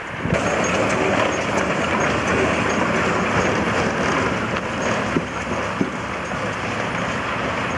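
A train running past: a steady, dense rushing noise of the passing train, with two short sharp clicks about five and six seconds in.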